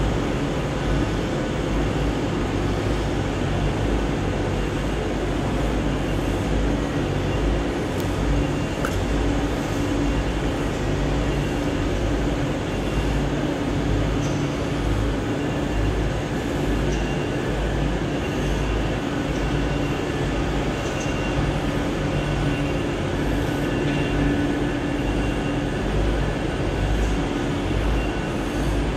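Steady mechanical hum and drone of trains standing at a railway station platform. A few faint, brief high squeaks and clicks sit on top.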